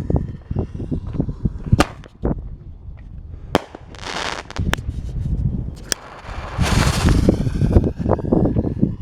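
Consumer artillery-shell fireworks fired from a mortar tube: sharp bangs about two, three and a half and six seconds in, with two stretches of hissing crackle between them, over a low rumble.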